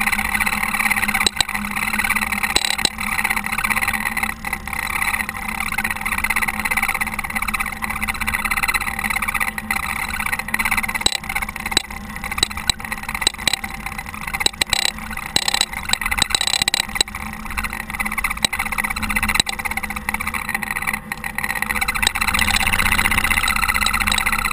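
Caterpillar TH330B telehandler's diesel engine running steadily while snowplowing, with frequent short clicks and knocks throughout.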